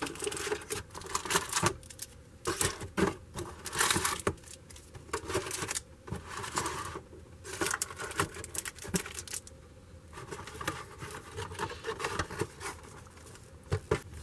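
Hands handling a trading-card wax box and its plastic wrap: irregular crinkles, rustles and small clicks and taps, in short bursts with quiet gaps.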